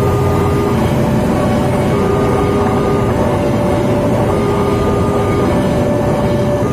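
Railway level-crossing warning alarm sounding two alternating tones that switch about once a second, over a loud steady rumble.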